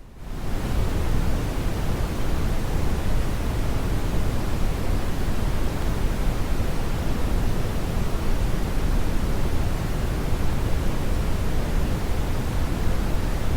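Strong brown noise: a steady, even rushing noise weighted heavily toward the bass. It swells back up to full level in the first half second after a brief dip.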